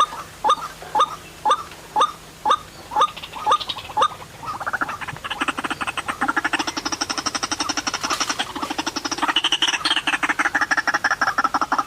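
White-breasted waterhen (ruak-ruak) calling: short rising notes about two a second, then from about four seconds in a fast, continuous croaking chatter.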